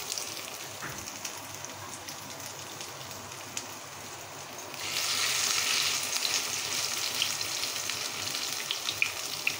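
Chicken pakora batter shallow-frying in olive oil in a pan: a steady sizzle that grows louder about five seconds in as a second spoonful of batter goes into the hot oil, with light crackles and pops.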